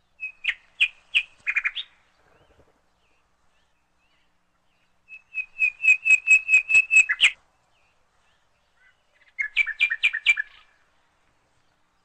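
Small birds calling in three bursts of rapid, sharp repeated chirps, several notes a second. The middle burst is the longest.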